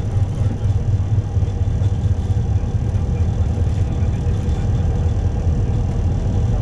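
Steady low rumble of engine and airflow noise inside an Airbus A321 cockpit, with the engines at take-off thrust during the initial climb.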